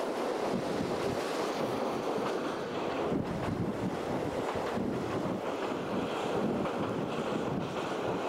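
Steady rush of wind and running noise from a JNR Series 50 passenger coach in motion, taken in at an open window, with wind buffeting the microphone.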